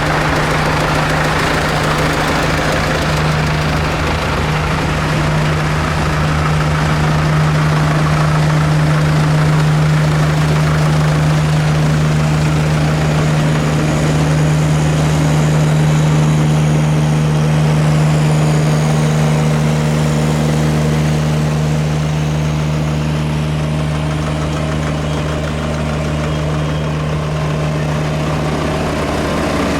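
Tractor engine running at a steady speed, holding one even note.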